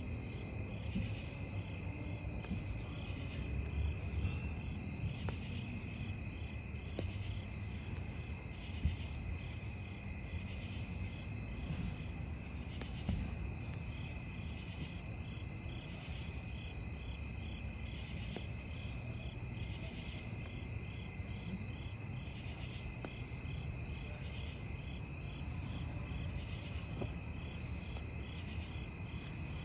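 Crickets chirping in a steady, even rhythm over a crackling wood campfire, with a couple of louder pops from the burning logs.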